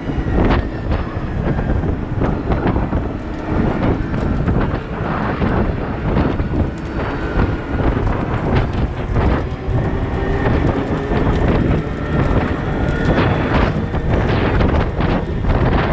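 Caterpillar 972M XE wheel loader working, its engine running under load amid repeated knocks and clatter, with wind buffeting the microphone.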